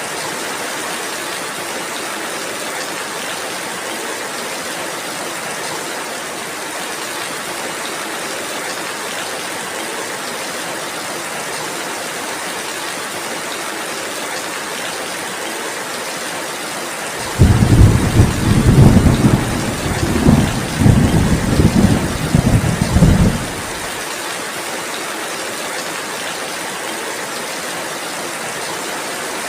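Steady rainfall as a constant hiss. About two-thirds of the way in, a loud low rumble of thunder starts suddenly, rolls in several swells for about six seconds, then stops abruptly, and the rain carries on.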